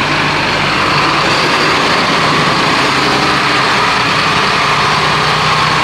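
Fire truck's engine running steadily.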